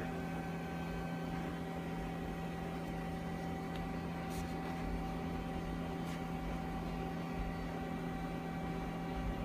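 Vacuum pump running with a steady hum, pulling vacuum on the evaporator's glass body. Two faint light ticks come about four and six seconds in.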